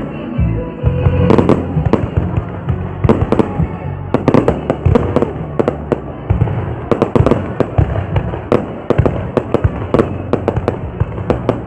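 Fireworks going off in quick, irregular bangs, several a second, with music playing underneath.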